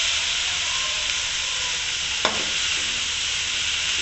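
Chicken and vegetable filling sizzling in a hot aluminium karahi while it is stirred with a slotted metal spatula, with one sharp clack of the spatula against the pan a little past halfway.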